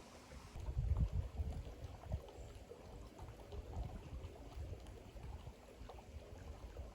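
Water of a small stream running, with irregular low thumps and rumbles, strongest a second or two in.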